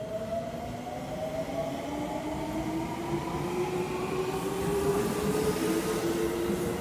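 Seibu electric commuter train pulling out of the station and accelerating: its traction motors give a whine that rises steadily in pitch over a low rumble of wheels on rail, growing louder as the train picks up speed.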